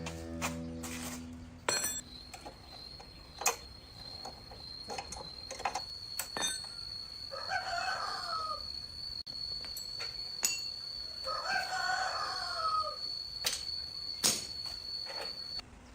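A rooster crowing twice, each crow lasting just over a second, with a few scattered sharp knocks and a faint steady high-pitched tone behind.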